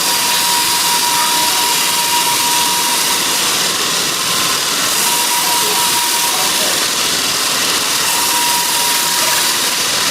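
Sawmill saw running steadily: a loud, even high hiss with a thin whine that comes and goes.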